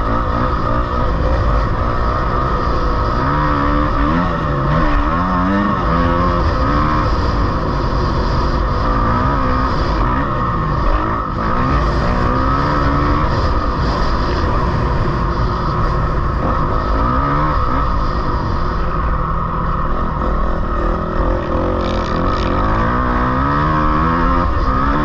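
Off-road engine revving up and down again and again as it is ridden around a dirt track, its pitch rising and falling every second or two over a steady rushing noise.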